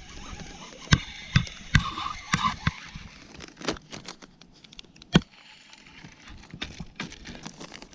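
Scattered sharp knocks and clicks, about half a dozen, the loudest about five seconds in: fishing gear being handled in a kayak.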